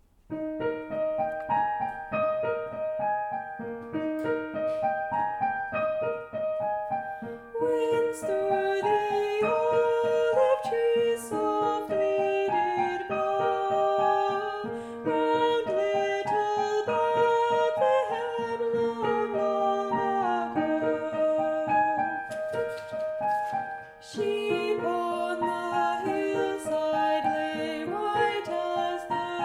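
Piano playing a carol tune, with a singing voice joining about eight seconds in.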